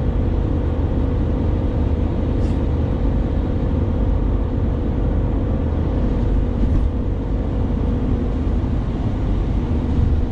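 Steady road noise inside a moving vehicle at highway speed: a constant low rumble of engine and tyres with an even drone.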